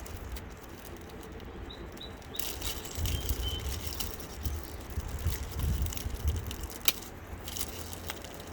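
Outdoor ambience: a steady low rumble with a few brief bird chirps about two to three seconds in, and a single sharp click near seven seconds.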